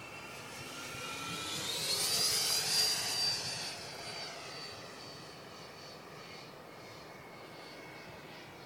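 Electric ducted fan of a radio-controlled Viper Jet model (120 mm, eleven-blade fan on a brushless motor) whining as the plane passes: the whine grows louder and rises in pitch over the first two to three seconds, then drops in pitch and fades.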